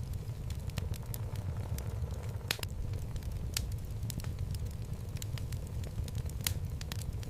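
Wood fire burning in a fireplace: a steady low rumble of flames with irregular sharp crackles and pops from the burning logs, one louder pop about two and a half seconds in.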